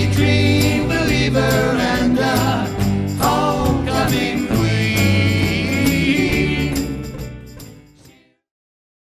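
Four-piece band playing a 60s/70s-style song, with a steady bass line, regular drum and jingle-like percussion hits and a melody line over it. The music fades out from about seven seconds in and is gone a little after eight seconds.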